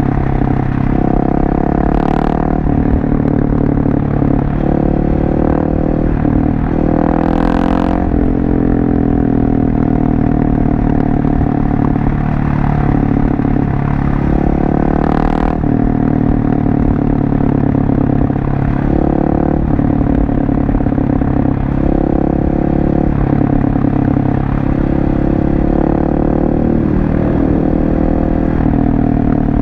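Husqvarna 701 Supermoto's single-cylinder engine running through a LeoVince exhaust while riding, its pitch rising and falling again and again as the rider opens and closes the throttle and changes gear.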